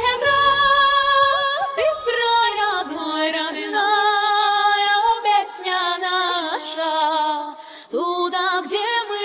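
Female voices singing in several-part harmony, holding long notes with vibrato. A low accompaniment fades out about three seconds in, leaving the voices unaccompanied, with a short break near the end.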